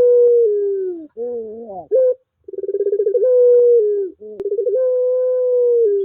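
Puter pelung turtle dove giving long, drawn-out coos: each opens with a quick trembling stutter, is held on a steady note and then slides down. Short rising notes come between the long coos, about a second in and again near two seconds; three long coos in all.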